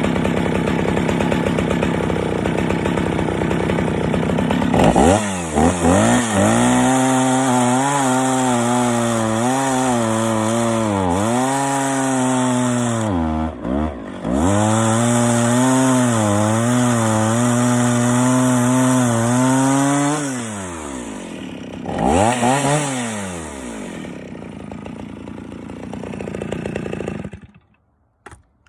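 Stihl 041 AV two-stroke chainsaw revving up and cutting through knotty ash, its engine pitch sagging and recovering again and again as the chain grabs, the rakers having been filed down a bit far. After a brief easing in the middle and one more rev near the end, it drops to a slower run and shuts off.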